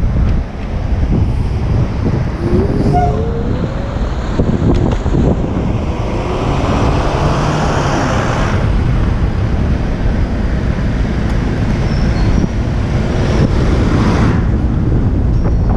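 Street traffic heard from a moving bicycle, with steady wind rumble on the action-camera microphone. A passing vehicle swells loudly in a rush of noise around the middle, and another briefly near the end.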